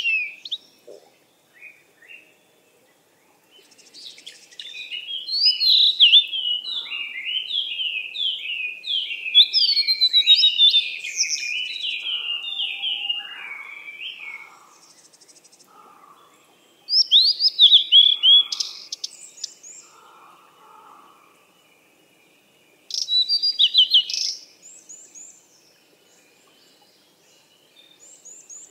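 Birds singing: a long run of quick, downward-sliding chirps lasting about ten seconds, then two shorter bursts of song later, with quiet gaps between.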